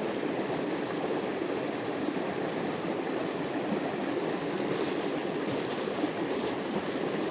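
Stream water running steadily over a shallow bed, an even rushing flow.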